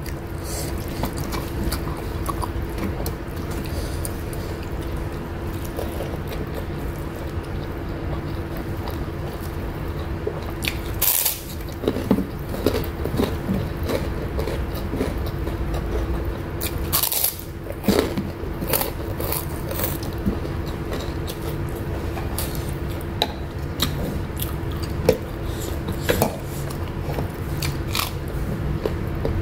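Close-miked chewing and mouth sounds of a person eating rice, beef jerky and raw vegetables by hand, with scattered short crunches and wet clicks, a few sharper ones in the middle. A steady low hum runs underneath.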